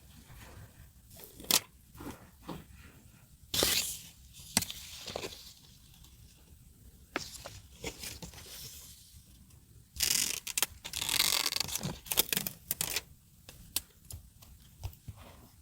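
Masking tape and paper being handled for scrapbook decorating: a short tearing sound about three and a half seconds in and a longer stretch of tearing from about ten seconds, among light taps and paper rustles.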